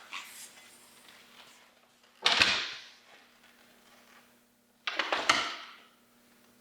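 A door banging twice, about three seconds apart. The second bang is a quick double hit. A faint steady hum runs underneath.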